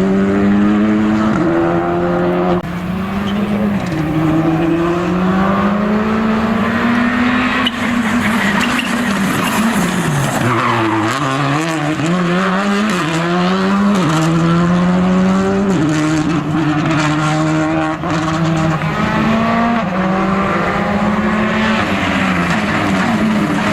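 Rally car engine running hard, revs climbing and dropping in steps as it shifts up through the gears, then falling and rising quickly in short swings around the middle and again near the end as it shifts down for corners and pulls away.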